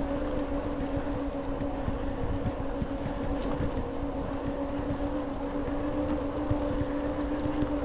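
Steady electric motor whine, one unchanging pitch with an overtone above it, over wind and rolling noise.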